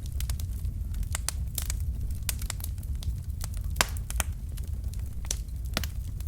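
Wood fire burning in a fireplace: a steady low rumble of flames with irregular sharp crackles and pops of burning logs, a louder pop a little before four seconds in.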